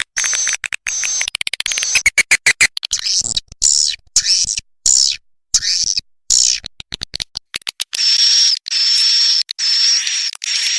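Recorded swiftlet calls played as a swiftlet-house lure track: rapid high clicking and chirping chatter broken by short gaps, giving way about eight seconds in to a series of longer high buzzing trills.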